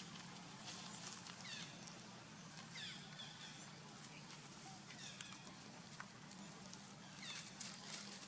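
Short, high animal squeaks, each falling quickly in pitch, some coming in pairs, heard about half a dozen times over a faint steady hiss.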